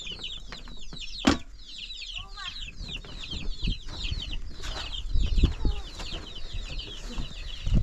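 Many small birds peeping continuously, a dense run of short high falling chirps. A sharp knock comes about a second in, and a few low thuds follow later.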